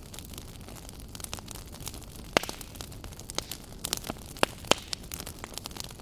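Wood fire burning in a fireplace, crackling steadily over a low hiss, with a few louder snaps a little before halfway through and near two-thirds in.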